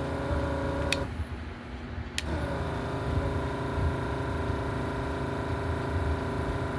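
Vacuum pump of a Yihua 948 desoldering station running with a steady hum. It switches off with a click about a second in and starts again with another click about a second later, then runs on. The owner finds that the pump barely sucks up any solder.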